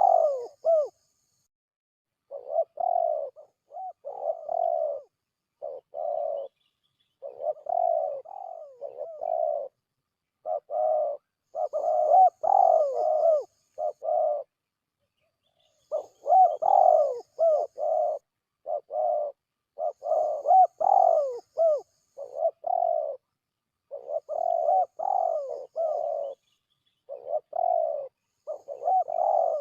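Spotted doves cooing in repeated phrases of several coos each, with short, completely silent gaps between phrases: a recorded lure call for drawing in spotted doves.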